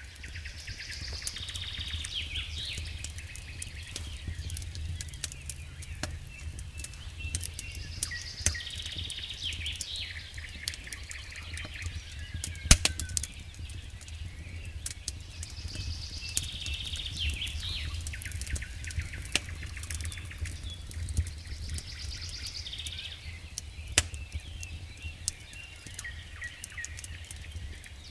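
Wood campfire crackling with scattered sharp pops, one much louder about halfway through, over a steady low rumble. Songbirds sing in the background, a bright phrase coming back every seven or eight seconds.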